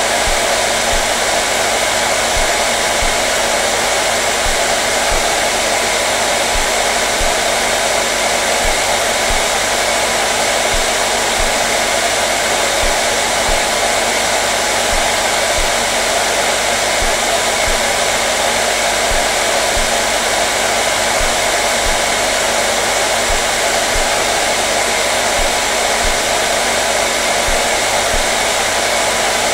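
Hair dryer running continuously: a steady, even blowing noise with a faint constant motor hum and no change in speed.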